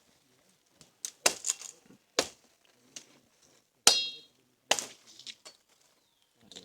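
A string of sharp knocks and clinks spread over about five seconds, one of them with a brief metallic ring.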